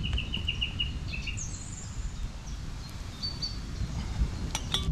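Woodland birds chirping over a low steady rumble: a quick run of about eight chirps at the start, then a couple of single higher calls, and a few sharp clicks near the end.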